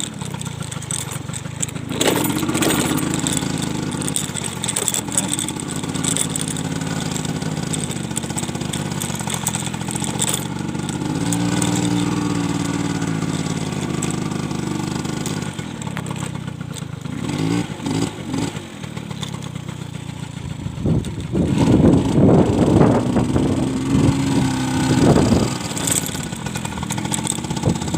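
Motor scooter engine running steadily while being ridden over rough ground. It revs up about halfway through, and again more loudly for a few seconds near the end.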